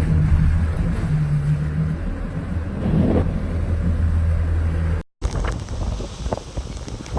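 A steady low motor hum. After a sudden cut about five seconds in, gusty storm wind buffets the microphone.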